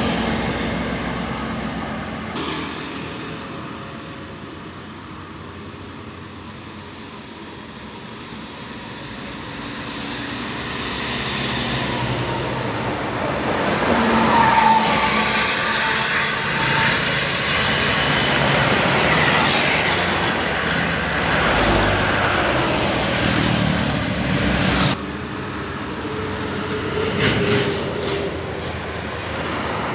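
Road traffic, with a large vehicle such as a bus passing close. The engine and tyre noise builds to its loudest about halfway through. The sound changes abruptly near the end.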